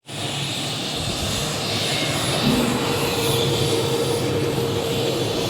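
Military aircraft engine roaring steadily overhead, with a held tone coming in about halfway through.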